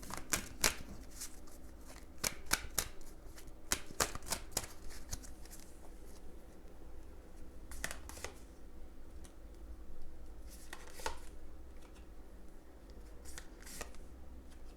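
Tarot cards being shuffled and handled: bursts of quick, crisp card clicks, busiest in the first five seconds, with further short bursts about eight, eleven and thirteen seconds in.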